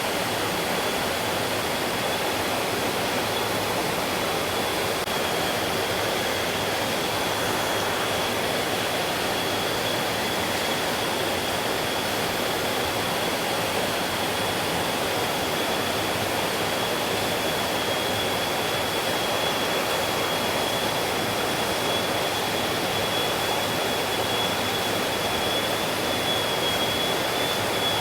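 Mountain stream water flowing and rushing steadily over rocks, with a thin steady high-pitched whine running through it.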